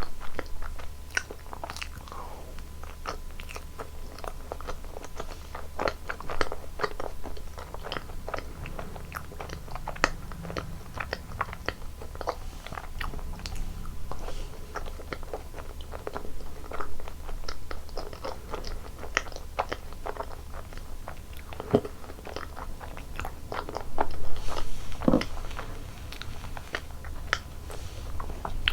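Close-miked eating sounds: biting and chewing of frozen dessert, with many short wet mouth clicks and crunches, a louder stretch of chewing near the end.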